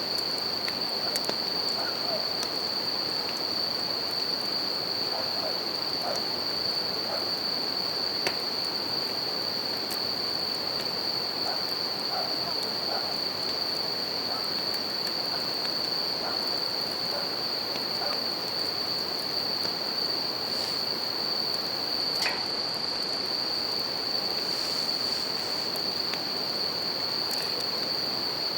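Japanese bell crickets (suzumushi) singing in a steady, unbroken high-pitched chorus over the continuous rush of a river, with scattered small crackles and pops from a wood campfire.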